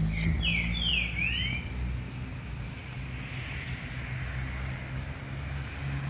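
A bird gives a quick call of three or four swooping notes in the first second and a half, with fainter high chirps from other birds afterwards, over a steady low rumble.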